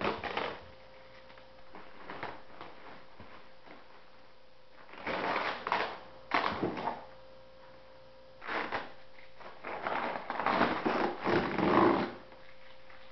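Plastic packaging and bubble wrap rustling and crinkling in several bursts as parts of a model jet kit are unwrapped, over a faint steady hum.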